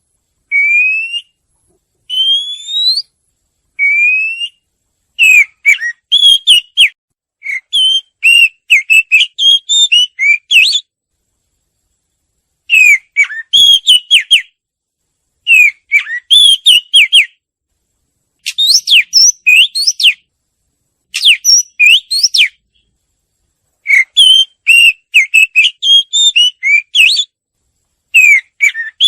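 A murai (Copsychus songbird) singing loudly. It opens with several single whistles, each rising in pitch, about one a second. About five seconds in it switches to fast phrases of varied chirps and whistles that come in bursts of a second or two, with short pauses between them.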